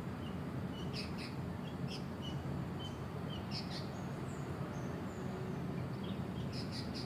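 Sooty-headed bulbuls chirping and calling: short high chirps repeat throughout, with sharper calls about a second in, near two seconds, around three and a half seconds and near the end. Under them runs a steady low hum of background noise.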